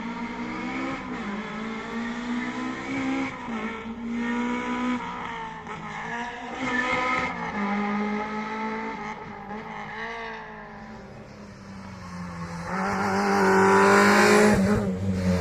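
Historic rally car's engine revving hard on a special stage. The pitch repeatedly climbs and drops with throttle and gear changes, then the car comes much louder from about two-thirds of the way through as it approaches and passes close.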